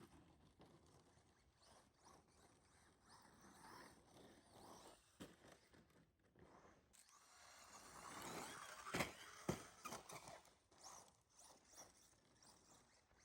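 Tekno SCT410SL electric 4x4 short-course RC truck driving in snow, faint: a thin motor whine rising and falling with throttle over tyre and snow noise, growing louder about eight seconds in, with two sharp knocks close together about nine seconds in.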